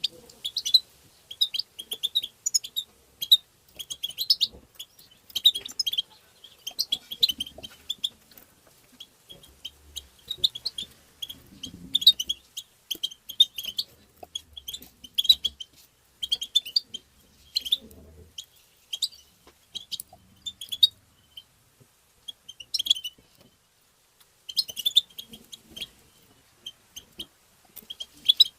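European goldfinch calling: quick twittering bursts of short, high notes, repeated every second or so with a few brief pauses.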